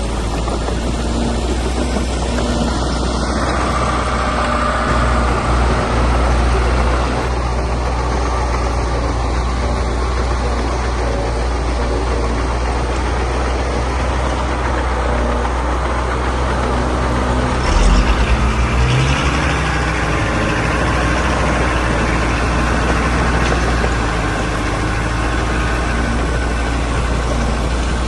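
Diesel engine of heavy earthmoving machinery running steadily, with a short burst of knocking about eighteen seconds in.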